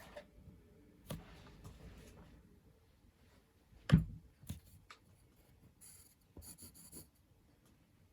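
Drawing tool scratching on paper in short strokes, with a single sharp knock on the desk about four seconds in and a few faint ticks near the end.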